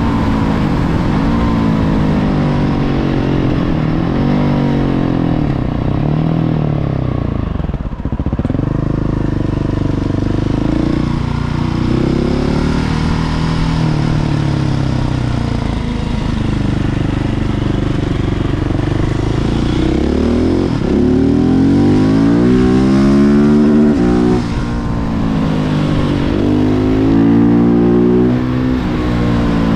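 Husqvarna 701 Supermoto's single-cylinder four-stroke engine through a Remus Blackhawk exhaust, pulling under throttle while riding. The engine note climbs and drops again and again as the bike accelerates, shifts and slows.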